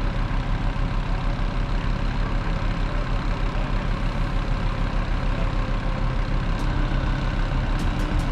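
Gehl RT65 compact track loader's diesel engine running steadily at idle, with an even pulsing beat.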